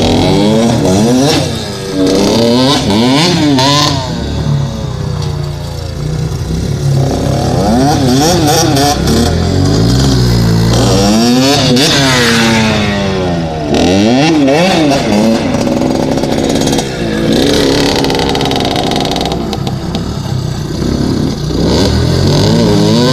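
Dirt bike engine revving up and down over and over, its pitch climbing and dropping back every second or two as the throttle is worked through riding.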